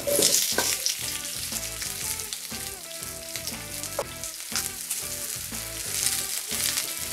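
Sliced onions and garlic sizzling in hot olive oil in a frying pan as they are stirred with a wooden spatula. The sizzle is loudest right at the start, as the onions hit the oil, and swells again about six seconds in.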